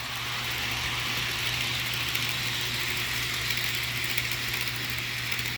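Rapido HO-scale FP9A model diesel locomotive's DCC sound decoder playing its diesel engine sound steadily through the model's small speaker, with a steady hiss over a low hum.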